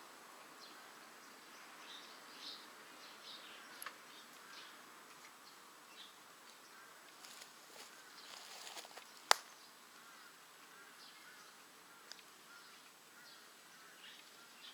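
Wood fire in a rocket stove crackling faintly, with scattered small ticks and one sharp pop about nine seconds in.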